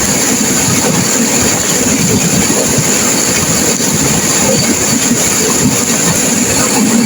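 Turbulent river water rushing and crashing, a loud steady rush with no breaks.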